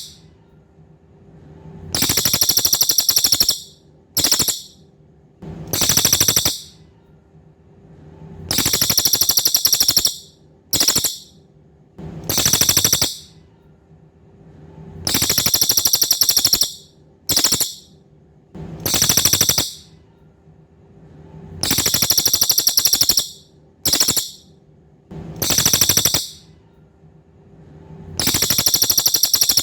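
Cililin songbird singing: high-pitched, rapidly pulsed buzzy trills, long ones of one to two seconds alternating with short bursts, repeated every few seconds. A faint steady low hum runs underneath.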